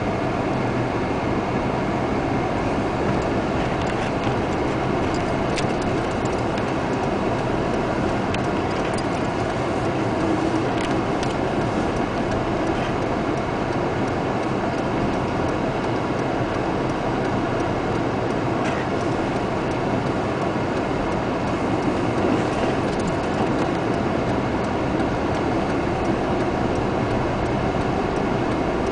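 Steady road and engine noise heard from inside a moving car, with a few faint scattered clicks.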